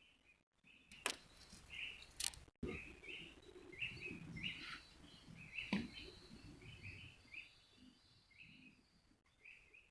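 A bird calling over and over with short chirps, roughly two a second, with a faint steady high whine behind it. Three sharp clicks and a stretch of low rumbling handling noise fall in the middle.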